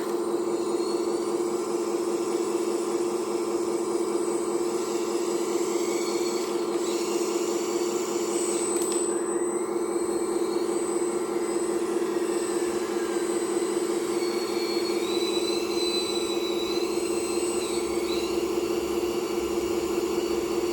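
Hydraulic pump of an RC Volvo 360L model excavator running with a steady whine, with fainter high whines above it that rise and fall in pitch.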